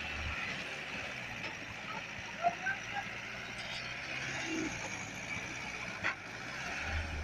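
Mahindra Sarpanch 595 DI tractor's diesel engine running steadily under load while pulling a loaded sugarcane trolley, with a few short sharp sounds about two and a half seconds in and a click near six seconds.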